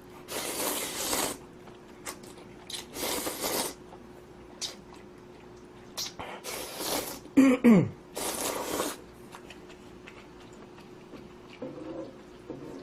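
Instant ramen noodles being slurped: four long, noisy slurps a few seconds apart, with quieter chewing between them. Just before the last slurp comes a short falling vocal grunt, the loudest sound here.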